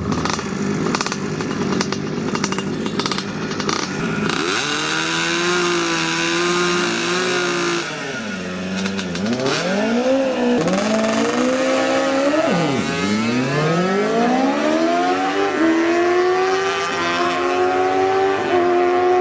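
A drag-racing engine at full throttle, its pitch climbing and dropping sharply at each gear change: a launch and run down the strip. Before it, about four seconds of rough, crackling engine noise.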